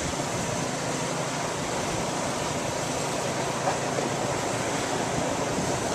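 Steady rushing outdoor noise with no distinct events, the kind that wind on the microphone and distant traffic make.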